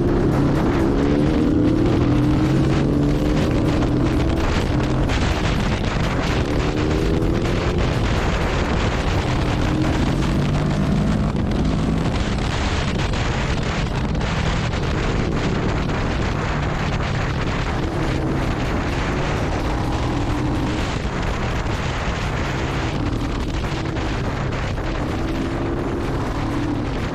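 Motorcycle engine running under way, its pitch repeatedly rising and dropping back as it accelerates and shifts, under heavy wind rushing over the microphone.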